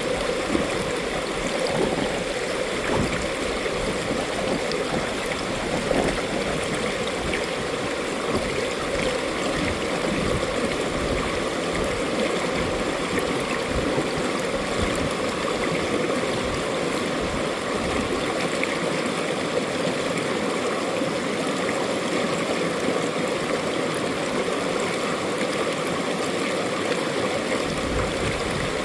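Mountain valley stream flowing, a steady, even rush of running water.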